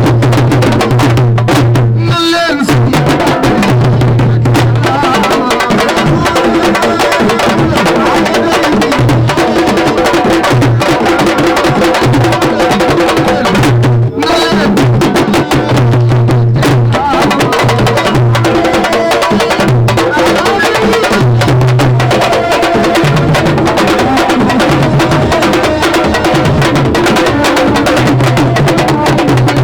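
Loud drum-driven music: rapid, dense drumming over a heavy bass line that comes and goes, with voices mixed in. It dips briefly about two seconds in and again about halfway through.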